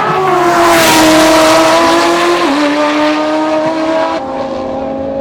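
Drag car making a pass down the strip at full throttle, its engine pitch stepping down twice as it shifts gears; after the second shift it grows quieter.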